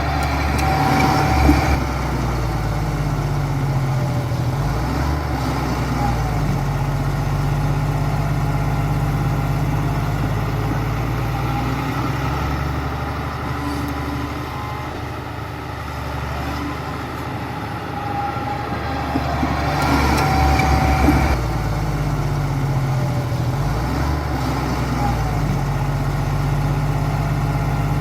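Bulldozer's heavy diesel engine running steadily under load, with louder stretches of rattling, clanking clatter about a second in and again around twenty seconds in.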